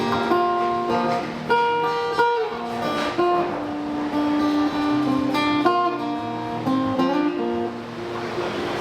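Acoustic guitar playing an instrumental break in a live singer-songwriter song, plucked and strummed notes changing every half second or so.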